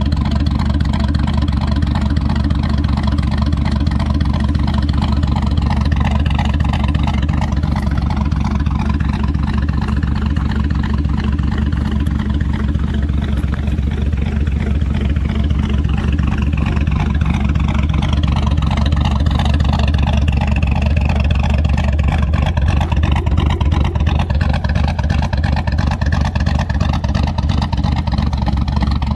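GM LS V8 truck engine with a Brian Tooley Racing Truck Norris camshaft idling in gear at about 700 rpm, with the choppy, lopey idle of the cam. It breathes through stock exhaust manifolds with the muffler deleted.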